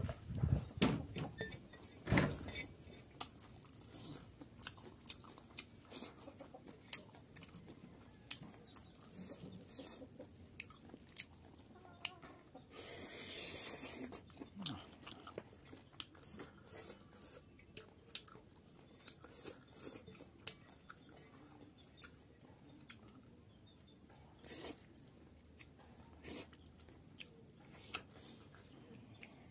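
A person chewing a mouthful of rice and chicken curry close to the microphone, with wet smacks and clicks of lips and tongue, heavier in the first couple of seconds. A longer hissing sound of about a second and a half comes about halfway through.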